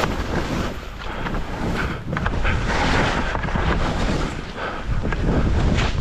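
Wind buffeting the microphone: a rushing noise with a heavy low rumble, swelling and easing every second or so.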